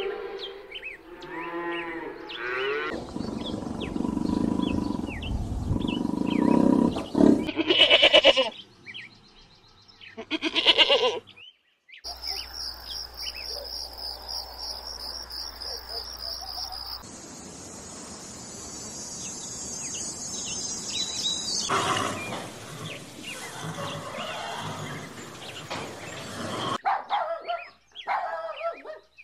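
A run of spliced recordings of farm animal calls, among them cattle mooing, changing abruptly from one clip to the next.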